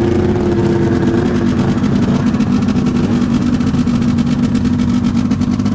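Two-stroke 700 snowmobile engine running steadily at a low, even speed. Its pitch eases down slightly in the first second and then holds.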